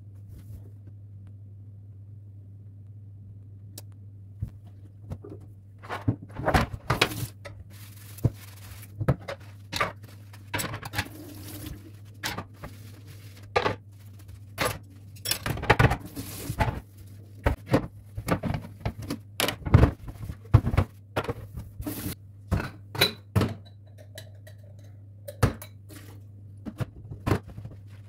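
Dishes and cutlery clattering as they are handled, with irregular knocks and clinks starting about four seconds in, over a steady low hum.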